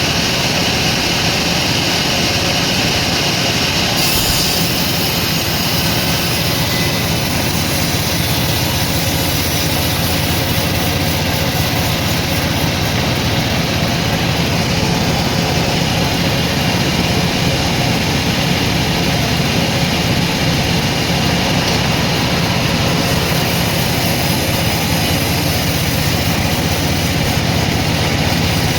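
Sawmill machinery running with a loud, steady mechanical noise, its higher hiss changing about four seconds in.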